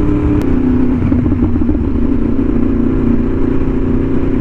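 Two sport motorcycles running together at a steady pace: a Yamaha R1M's crossplane inline-four and a BMW S1000RR inline-four with an Arrow exhaust. Their exhaust notes mix into a wobbling beat, and one note drops slightly about half a second in.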